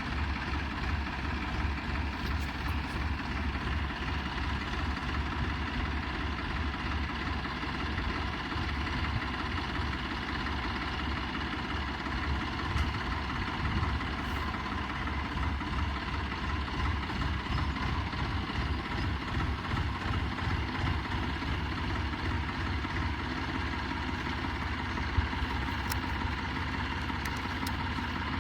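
Tractor engine running steadily at a low, even speed with a deep pulsing throb.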